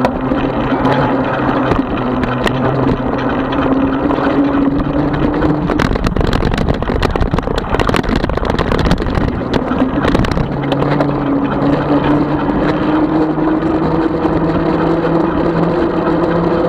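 36-volt electric bike motor humming steadily with wind and road noise while riding. About six seconds in the hum gives way to rough rattling noise with many clicks for several seconds, then returns and rises slightly in pitch.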